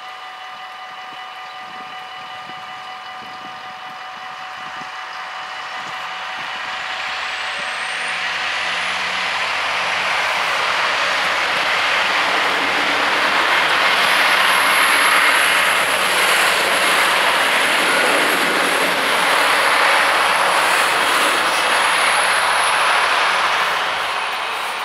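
Level-crossing bells ringing steadily while a Syntus LINT 41/H diesel railcar approaches and passes over the crossing. The train's rumble and wheel-on-rail noise build up, stay loud for about ten seconds with a thin high whine above them, and ease off near the end.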